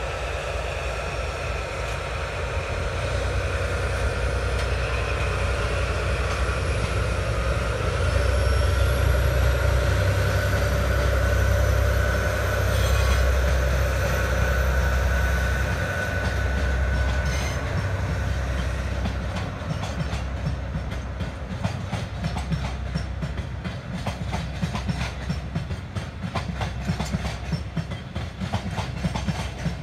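Red KE65 diesel locomotives of a freight train passing with their engines running, a heavy low rumble that is loudest in the first half. Cement hopper wagons then roll by, their wheels clicking rapidly over the rail joints.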